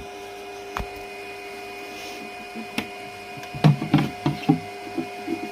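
Handling noises over a steady hum: a couple of single clicks, then a cluster of knocks and bumps about three and a half to four and a half seconds in, as the camera is set down and the paused resin 3D printer is handled.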